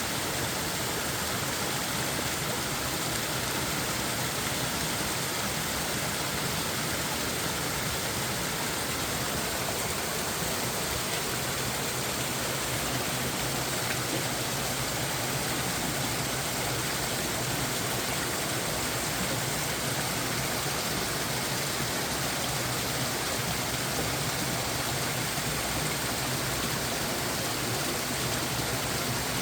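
A mountain stream rushing steadily: a constant, unbroken wash of flowing water.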